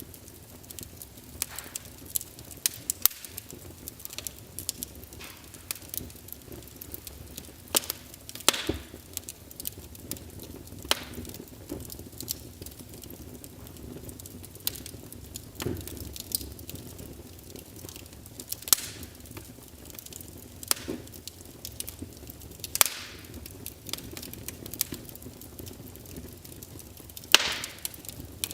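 Wood fire crackling in a fireplace, with irregular sharp pops and snaps from the burning logs over a low steady hiss. The loudest pops come at about 8, 19 and 23 seconds in and near the end.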